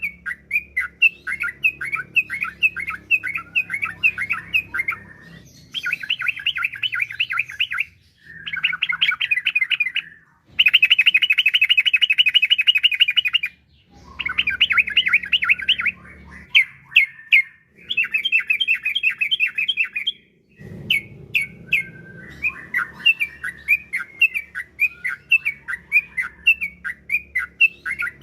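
Yellow-vented bulbul (trucukan) singing in phrases of quick, bubbly chirping notes broken by short pauses. Its loudest stretch is a fast, even rolling run about ten seconds in.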